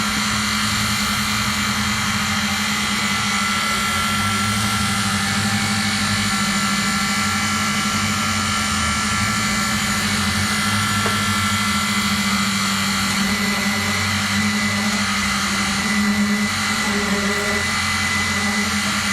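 Truck-mounted concrete mixer pump running steadily: a constant engine hum with several steady high whines over it.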